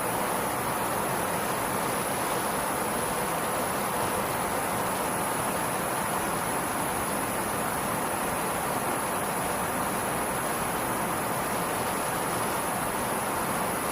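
Fighter jet engine running steadily: an even rushing roar with a thin, steady high whine over it.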